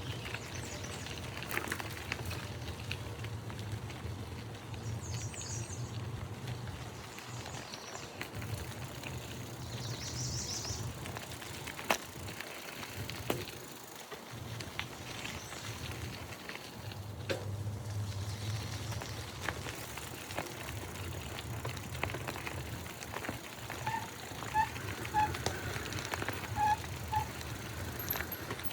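Outdoor ambience: a steady low rumble with birds chirping now and then, high and brief, and near the end a series of short, clear whistled notes.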